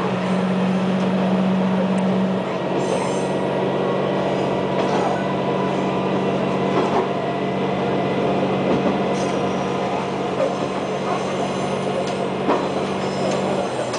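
KiHa 120 diesel railcar running, heard from the cab: a steady low drone from its diesel engine that eases a little after about two seconds and drops away near the end, with scattered clicks of the wheels over the rail.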